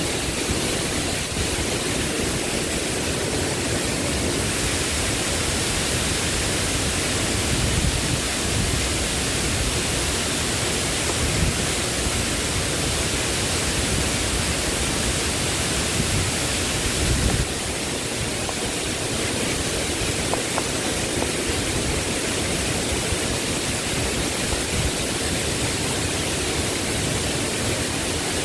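Steady, loud rushing of heavy rain and running water, even throughout, with a slight drop in level about 17 seconds in.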